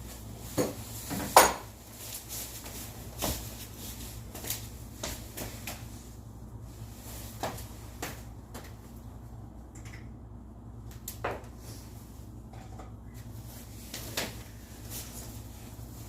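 Scattered clinks and knocks of hard, metal-sounding objects being handled, about a dozen over the stretch, the loudest about a second and a half in, over a steady low hum.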